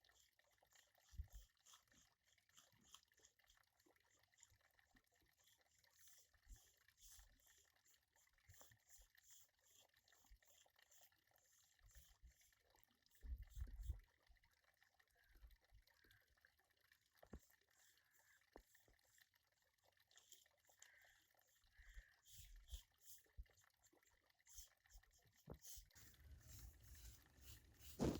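Near silence, with scattered faint clicks and a few soft, low knocks from light handling.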